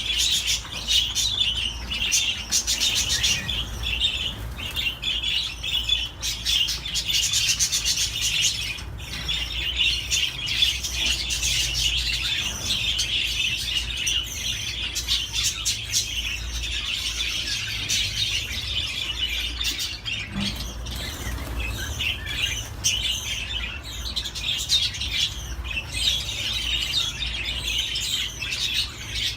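Pet budgerigars warbling and chirping in continuous, busy chatter, over a steady low hum.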